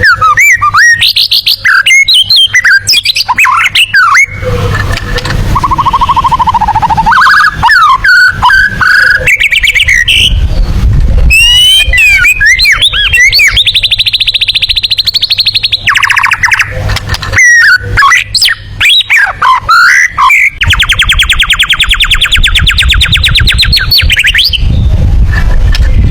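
White-rumped shama (murai batu) singing a loud, varied song of whistled notes and slurred glides, broken by fast rattling trills, the longest lasting about four seconds near the end.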